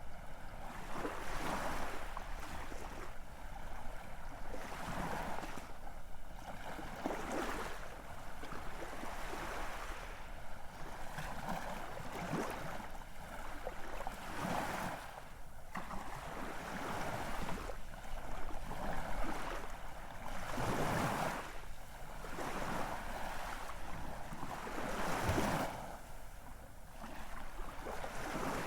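Ocean waves washing in: a steady rush of surf that swells and eases every second or two, with the loudest surges about two-thirds of the way through and again near the end.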